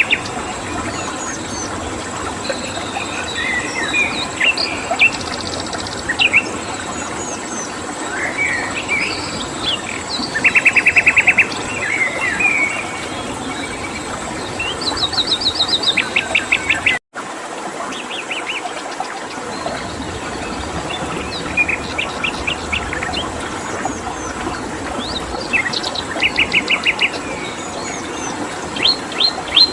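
Several songbirds chirping and singing, with bursts of rapid, evenly repeated trill notes, over a steady background hiss and a thin, constant high tone. The sound cuts out completely for an instant about seventeen seconds in.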